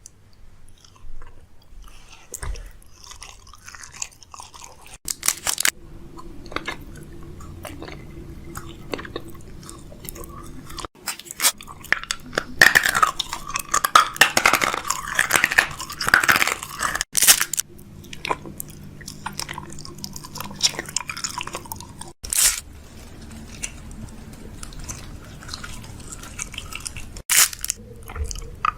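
Close-up chewing and crunching of food, with irregular crackles and a few louder crunches.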